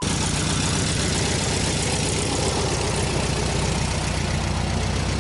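Volkswagen campervan engine idling steadily with a fast, even pulse.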